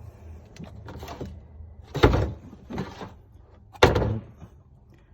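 Rummaging through a storage cupboard: two loud thunks about two seconds apart, each ringing briefly, with lighter knocks and rustling in between.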